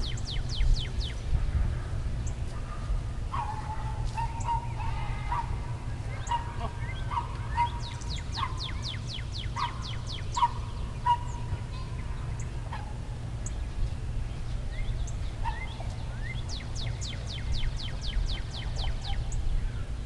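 Songbirds singing over steady low wind rumble on the microphone. A rapid trill of high, downward-sliding notes comes three times, at the start, in the middle and near the end. A lower, wavering call runs through the first half.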